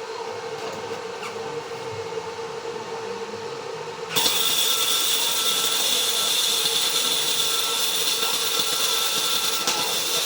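Steady machine hum, then about four seconds in an arc welder strikes and runs a bead for about six seconds, giving an even crackling sizzle that cuts off suddenly when the arc is broken.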